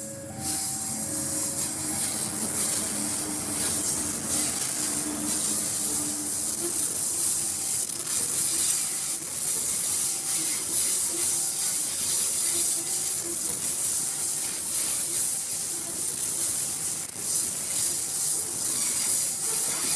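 Babaranjang long coal train rolling past, a steady loud noise of steel wheels running on the rails and wagons clattering by, with faint intermittent tones in the background.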